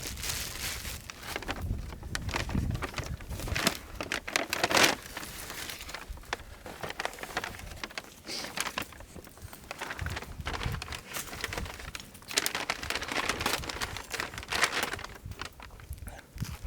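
Irregular crinkling and rustling with scattered sharp clicks, coming in uneven bursts.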